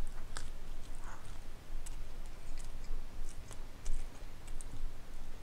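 Chewing a mouthful of pepperoni pizza: scattered small, sharp wet mouth clicks over a low steady hum.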